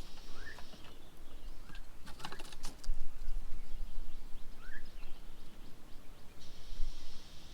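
Birds at a bird table: two short rising chirps, with a quick run of sharp taps and clicks about two to three seconds in. A high hiss sounds near the start and again near the end.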